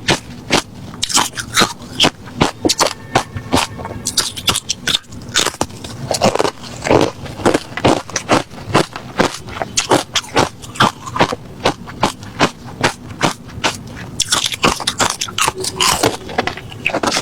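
A person chewing refrozen crushed ice close to the microphone: a steady run of crisp crunches, two or three a second.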